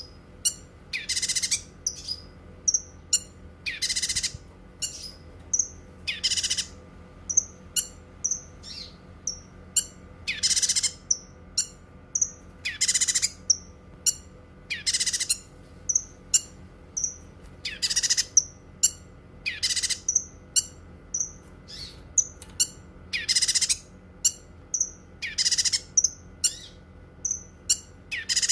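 Cucak kinoi singing: loud, harsh, rattling phrases about every two seconds, with quick high chirps in between.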